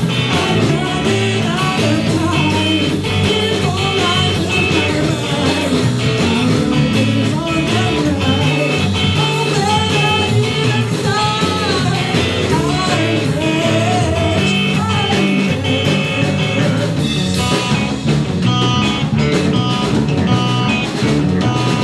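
Live rock band playing loud, with electric guitar and a drum kit and a wavering melodic lead line.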